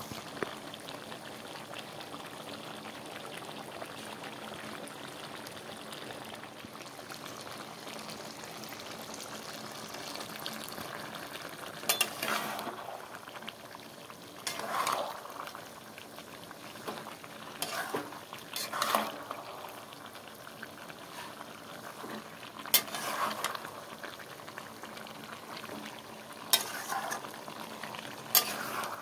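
Chicken and potato curry sizzling and bubbling in a metal pot. From about halfway through, a metal spatula stirs it in short bursts, clinking and scraping against the pot.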